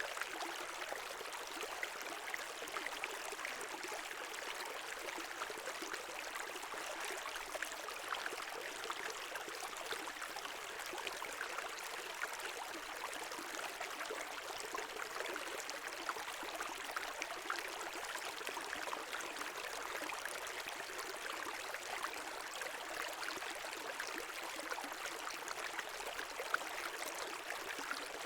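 Small brook running over stones, a steady rush with fine splashing and gurgling.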